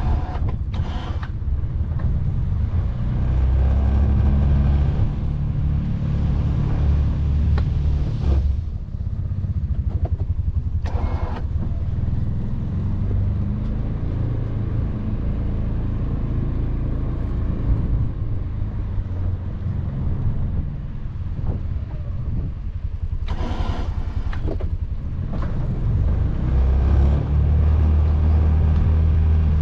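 Can-Am Defender side-by-side's engine running steadily while plowing snow, louder in a couple of stretches, with two brief rushing noises along the way.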